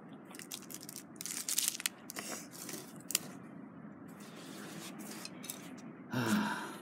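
Plastic bag crinkling in short bursts, with a sharp click about three seconds in.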